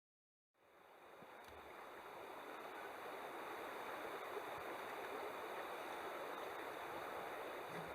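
Steady rushing of running water, fading in about half a second in and growing slowly louder.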